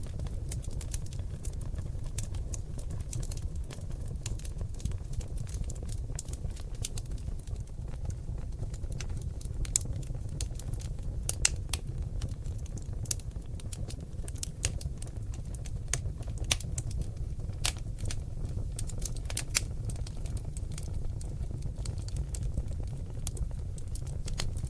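Seasoned oak logs burning in a fireplace: a steady low rumble of flames with many sharp, irregular crackles and pops, a few of them louder.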